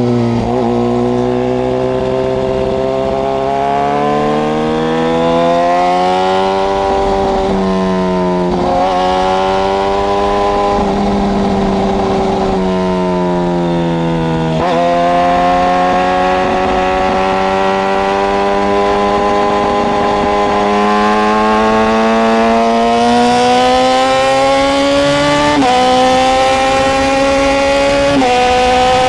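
Suzuki GSX-R sport bike's inline-four engine pulling under steady throttle. Its pitch climbs slowly in long stretches, broken by a few sudden jumps as the rider changes gear.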